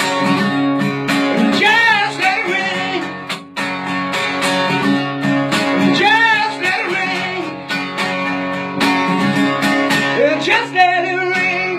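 Guitar strummed in a steady rhythm, with a wordless wavering vocal line sung over it in a few phrases.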